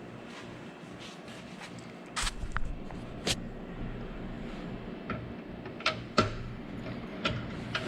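A few sharp metallic clicks and knocks from handling the saw stand's metal mounting brackets and lock levers. They sound over steady rain and wind hitting the barn, which swells into a low rumble about two seconds in.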